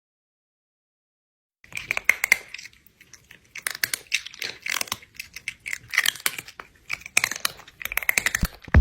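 Silence for almost two seconds, then dense, irregular crackling and crunching clicks that run on unevenly.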